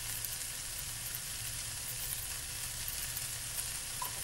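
Mushroom fried rice sizzling steadily in a frying pan, stirred with a slotted spoon at first, over a low steady hum.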